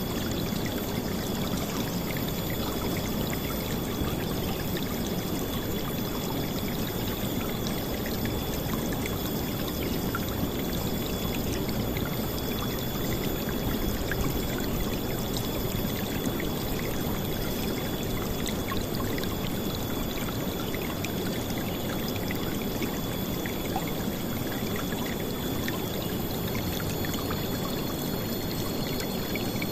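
River water flowing in a steady, loud rush with splashing, even throughout with no breaks. A thin, steady high tone runs alongside it, and a second one joins near the end.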